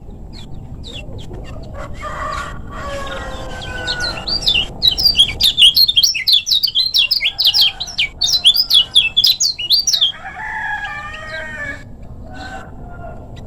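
Kecial kuning, a Lombok white-eye, singing a fast, tightly packed run of high chirps for about six seconds in the middle, the loudest part. Lower, drawn-out calls come before and after the run.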